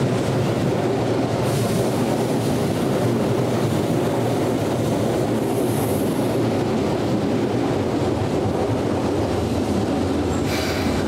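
Keihan electric train running on the track beside the platform, a steady rumble of wheels on rails, with a hiss coming in near the end.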